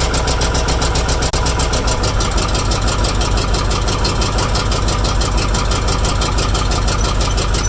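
Food truck's engine running steadily, with a change in its low note about two seconds in.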